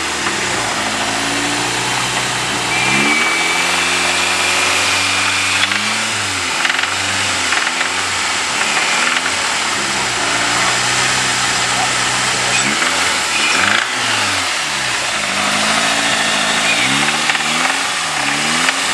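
Car engine revved several times, its pitch climbing and falling back with each rev, over a steady hiss. The engine has a fault that a listener places in cylinder 1 or 2.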